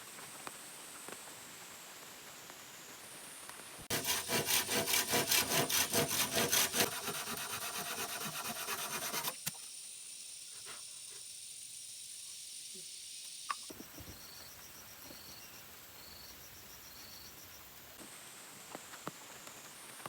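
Hand saw cutting through wood in quick, even back-and-forth strokes, starting about four seconds in and stopping suddenly about five seconds later.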